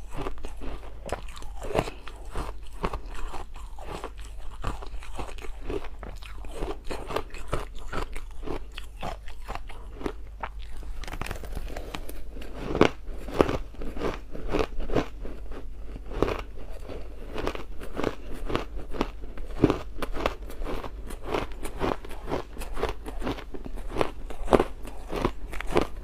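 Ice being bitten and chewed close to the microphone: a continuous run of sharp, irregular crunches with a steady low hum underneath.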